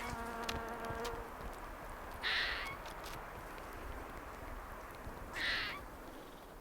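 Outdoor bird calls: a short, harsh call repeats about every three seconds, over a drawn-out low tonal note that lasts about the first second and a half. A few faint clicks are heard against a steady background hush.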